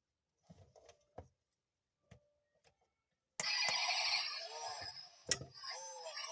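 A few light clicks of the toy model being handled, then about three and a half seconds in the 1:24 Lamborghini model's built-in sound chip starts a loud electronic engine sound through its tiny speaker, the pitch rising and falling like revving, with a sharp click partway through.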